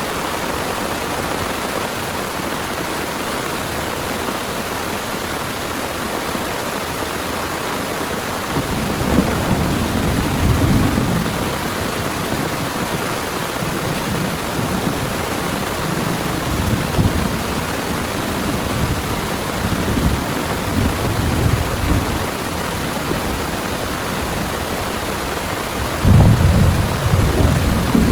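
Heavy rain falling steadily as an even hiss. Low rumbles of thunder roll in from about nine seconds in, with a louder rumble near the end.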